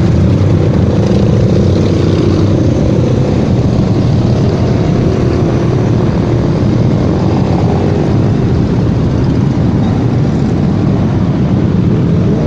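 Motorcycle riding along at speed, its engine running steadily under a loud, constant rush of road and wind noise.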